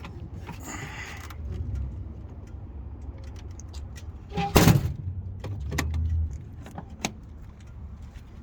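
Scattered clicks and rattles over a low rumble, with one loud thump about four and a half seconds in.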